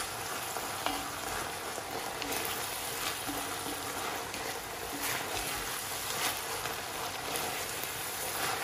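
Ground beef and diced vegetables sizzling steadily in a shallow enamelled pan while a wooden spoon stirs them, with a few light scrapes of the spoon.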